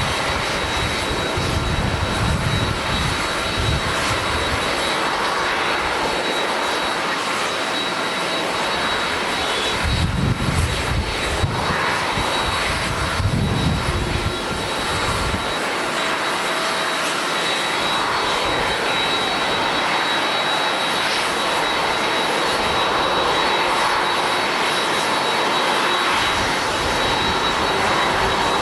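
Jet airliner's engines running steadily, with a thin high whine over the rush of engine noise and bouts of low rumble.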